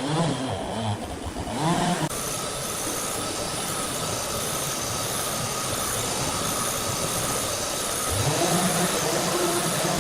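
Steady mechanical noise from heavy machinery at work. About eight seconds in, an engine's pitch rises and then holds steady.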